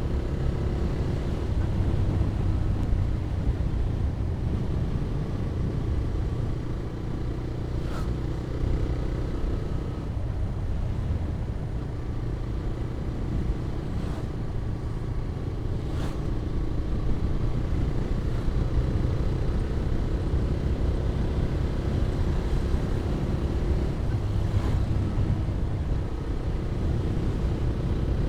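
TVS Raider 125's single-cylinder engine running steadily while riding at speed, under heavy wind rumble on the microphone. Two brief sharp clicks come about 8 and 16 seconds in.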